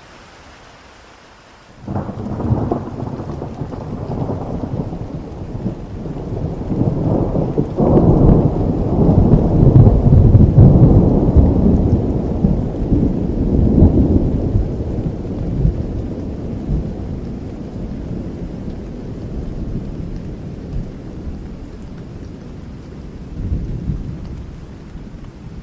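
Thunderstorm: faint steady rain, then a thunderclap about two seconds in that rolls on as a long deep rumble. The rumble swells to its loudest in the middle and slowly fades, with a smaller swell near the end.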